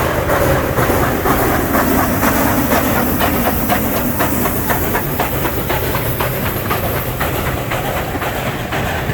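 Steam locomotive No. 1309 working hard at full throttle: a steady rhythm of exhaust beats, about three to four a second, over a continuous steam hiss, easing slightly near the end.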